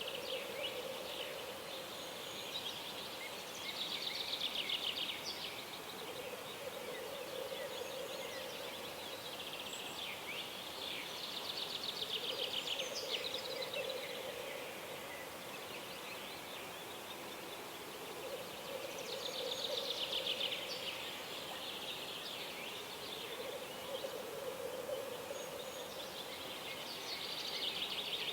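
Wild birds singing: a rapid trilling song repeated about every eight seconds, with a lower drawn-out call recurring every six seconds or so, over a soft steady background hiss.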